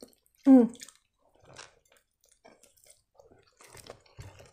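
Close-up wet mouth sounds of someone chewing a bite of soft shawarma, with a brief falling hum about half a second in, the loudest sound, followed by faint scattered smacks and clicks.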